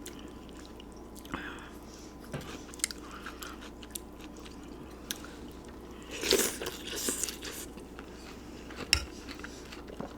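Close-miked eating of pozole: chewing and biting with small clicks, and a louder stretch of mouth sounds about six seconds in.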